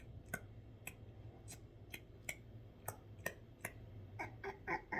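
A person imitating a European starling with a string of short mouth clicks and brief chirps, irregularly spaced, running together more quickly near the end.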